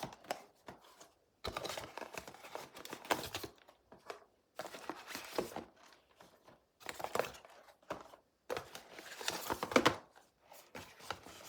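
Blind-box packaging being opened by hand: crinkling and tearing in irregular bursts with short pauses between them.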